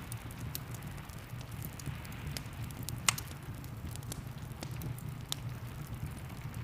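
Wood fire crackling, with frequent small pops and one sharper pop about three seconds in, over a steady low rumble and the even hiss of rain.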